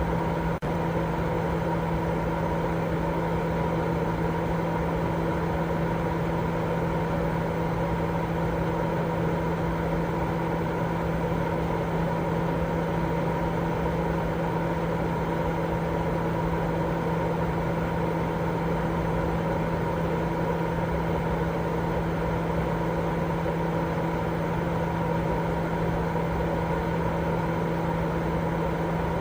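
Continuous baby-sleep white noise: an even, unchanging hiss with a steady low hum running under it. There is a brief dip just under a second in.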